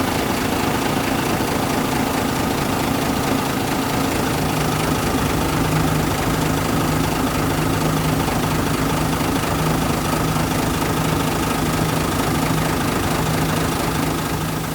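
Bus engine idling steadily just after starting, fading out near the end.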